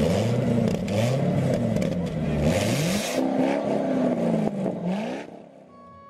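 Motorcycle engine revving, its pitch climbing and dropping several times over, then dying away about five seconds in.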